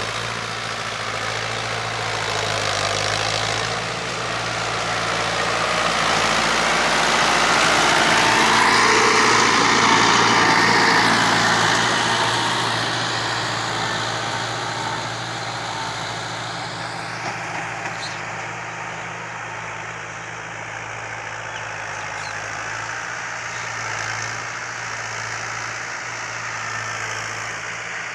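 Fiat 640 tractor's diesel engine running steadily. The sound swells louder to a peak about ten seconds in, then fades back down.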